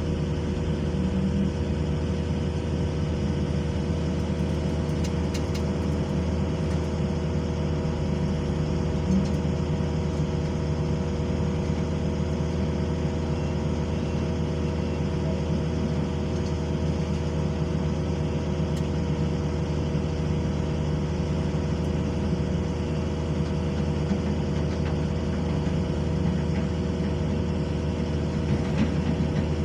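Heavy diesel construction machine engine running at a steady speed, a constant low hum with no revving.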